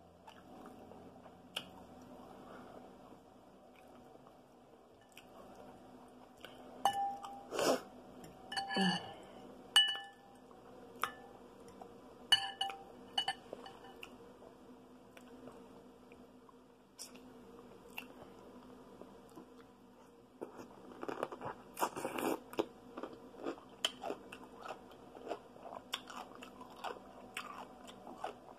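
A person eating: chewing and biting, with crunchy bites. Several ringing clinks of a utensil against a glass bowl come in a cluster about a quarter of the way in and again shortly after.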